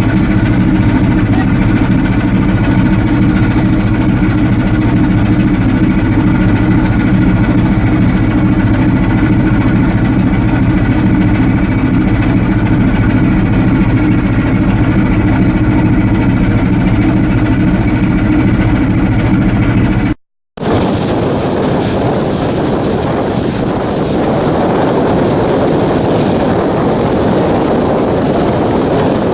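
Ship's Akasaka diesel main engine running steadily at sea, a loud, even machinery hum. About two-thirds of the way in it cuts off abruptly and gives way to a steady rush of wind and water noise.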